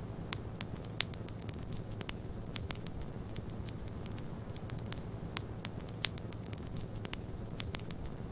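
Wood fire crackling, with irregular sharp pops, a couple of them louder, over a steady low rumble.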